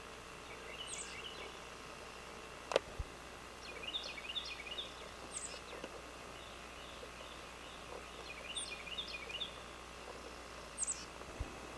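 Bird chirping outdoors in short phrases of high notes, several times, over a steady background hiss, with one sharp click about three seconds in.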